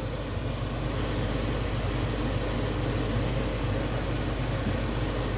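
A steady machine hum with an even hiss, like a fan or air-conditioning unit running.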